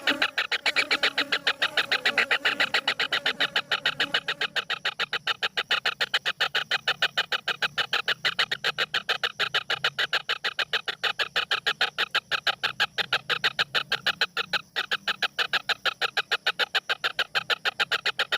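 A bird calling in a rapid, regular series of short sharp notes, about five a second, without a break.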